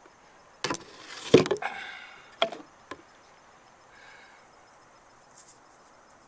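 Several hollow knocks and a short scraping clatter on the kayak, the loudest about a second and a half in, then it goes quiet.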